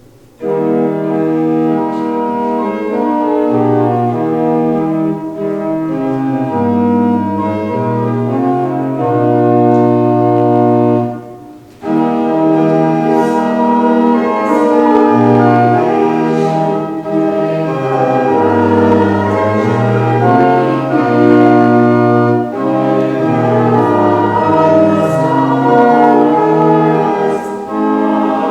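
Church organ playing a closing voluntary after the blessing: sustained chords over a moving bass line, starting about half a second in, with a short break near the middle.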